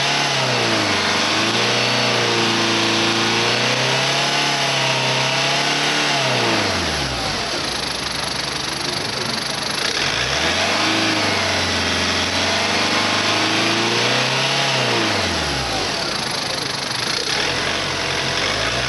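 Hyundai Tucson 2.0 CRDi D4EA four-cylinder turbodiesel engine revved up and held at high revs for about five seconds before dropping back to idle. This happens twice, and it revs up once more near the end.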